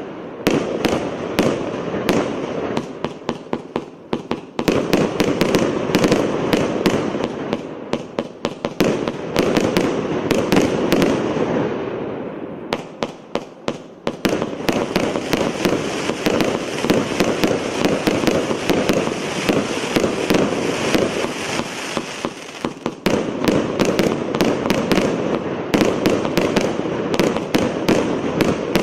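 A 600-shot, 1-inch consumer firework cake firing: rapid shots and bursting reports packed closely together. They come in several waves a few seconds long, with brief lulls between them.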